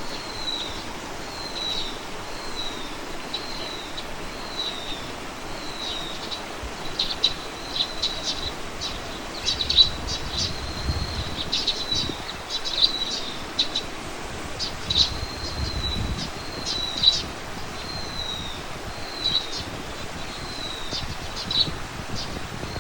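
Small bird calling over and over, each call a short falling high note, repeated at a steady pace of about one to two a second, with sharper chirps crowding in through the middle. A steady outdoor hiss lies underneath.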